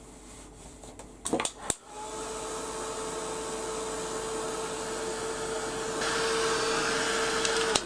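Craft heat gun switched on after a click or two, running with a steady hum and rushing air for about six seconds, louder for the last couple of seconds, then switched off. It is drying freshly applied titanium white paint.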